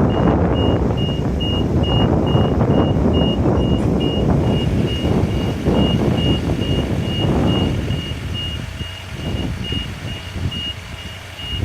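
Vehicle warning beeper, like a reversing alarm, beeping evenly about two to three times a second over a rumbling engine and wind noise. The rumble eases after about eight seconds.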